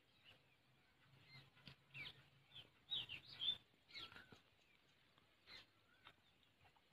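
Faint bird chirps, short calls coming on and off, with a cluster of quick chirps about three seconds in.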